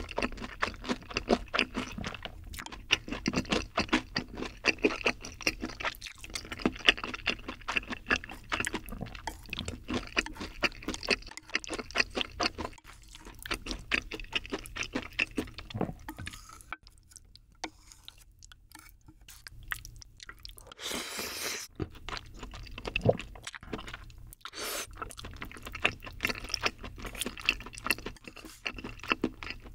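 Close-miked wet chewing of creamy bacon pasta: dense, sticky mouth clicks and smacks. They thin out about halfway, a short rush of hiss comes about two-thirds through, and then the chewing starts again.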